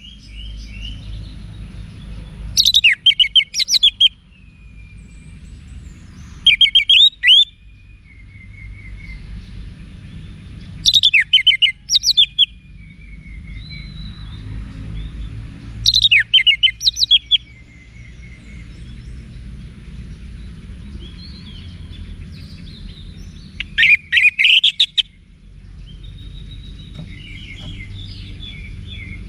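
Orange-headed thrush singing: loud bursts of rapid, repeated notes about every four to five seconds, with softer warbling and short whistled notes between them, over a low background rumble.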